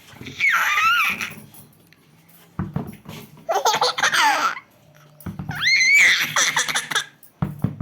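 Baby laughing in three high-pitched bursts. The last two each follow a short thump of a ball dropping, about two and a half and five seconds in, and another thump comes near the end.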